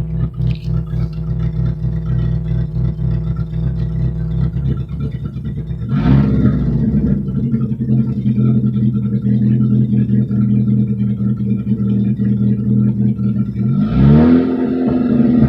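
Straight-piped GM 2.2L four-cylinder engine with no muffler, running steadily at first. About six seconds in the revs climb and then hold, and near the end they dip and climb again, as under acceleration.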